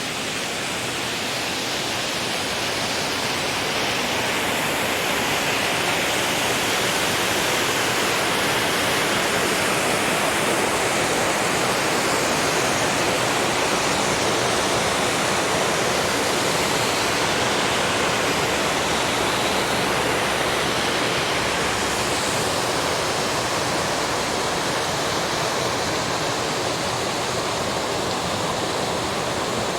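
Waterfall spilling over a dam: a steady, even rush of falling water, growing a little louder over the first few seconds.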